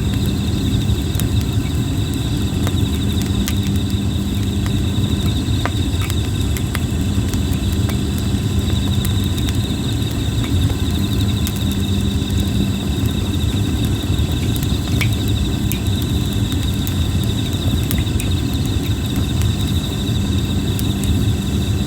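Wood fire of red plum branches crackling, with scattered sharp pops, over a steady pulsing insect trill and a continuous low rumble.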